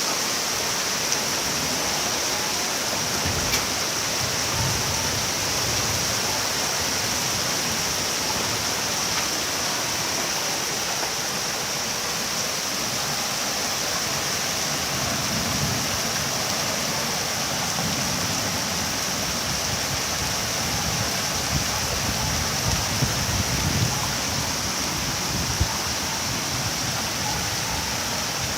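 Heavy rain falling steadily, an even hiss, with a few light taps in the second half.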